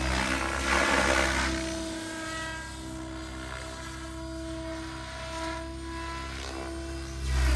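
Radio-controlled helicopter in flight, its rotor and motor whine running steadily, with two louder swells as it passes close, about a second in and again near the end.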